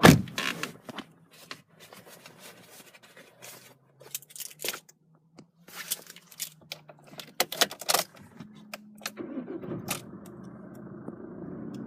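Keys jangling and clicking, then the Chevrolet Orlando's 2.0 VCDI turbo-diesel engine starts about nine seconds in and settles into a steady idle.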